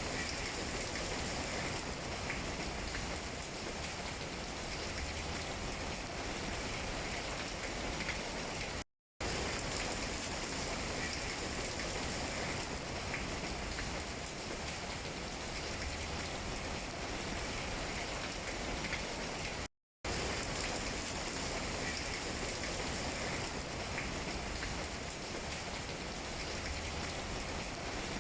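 Steady rain falling on tree leaves, with scattered drops tapping through a continuous hiss. The sound cuts out completely for a split second twice, about nine and twenty seconds in.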